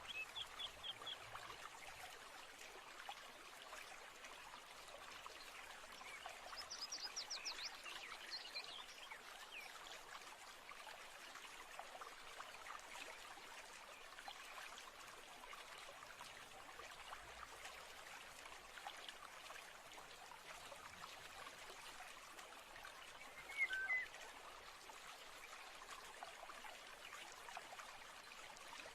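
Faint steady trickling of a stream, with birds calling over it: a few quick high notes at the start, a fast high trill about seven seconds in, and one short, louder call near the end.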